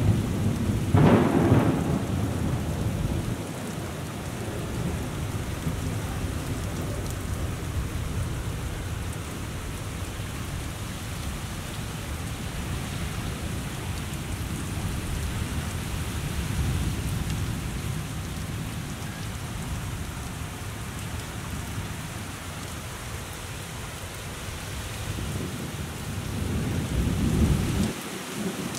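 Heavy rain pouring steadily over a low rumble, with a louder surge about a second in and again near the end.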